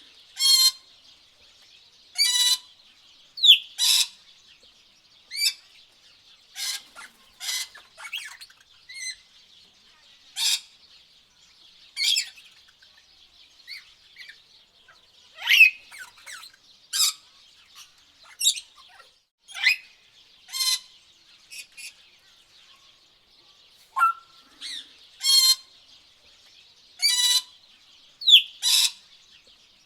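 Tropical birds calling: short harsh calls every second or two, a few of them falling whistles, over a steady high-pitched hiss.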